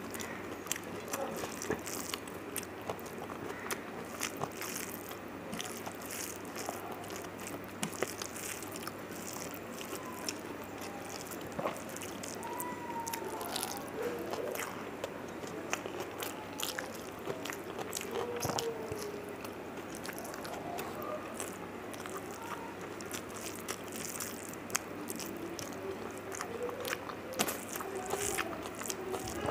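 Close-miked eating sounds of a person eating rice and fish curry by hand: wet chewing, lip smacks and frequent small clicks, with fingers mixing rice on a steel plate.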